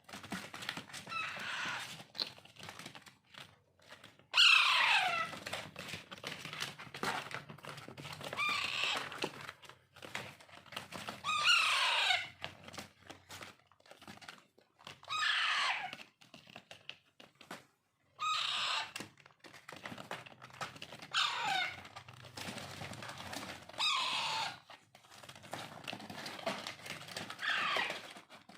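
Alexandrine parakeet chicks begging during hand-feeding: about eight calls, roughly three seconds apart, each falling steeply in pitch over about a second. Short wet clicks and gulps from the feeding come in between.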